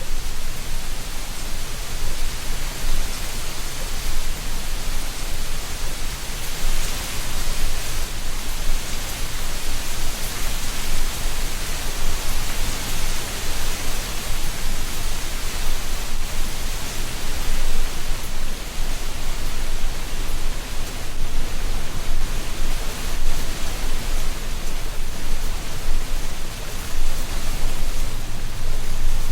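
Wind blowing through a tree canopy, rustling leaves as a steady hiss that swells and eases a little in gusts.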